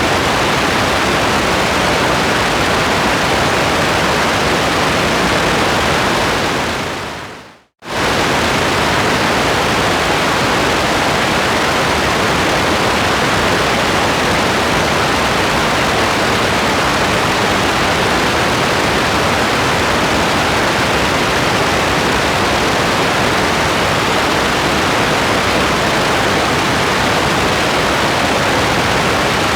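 Steady, even hiss of heavy rain. It fades away to silence about seven seconds in and cuts back in suddenly a moment later.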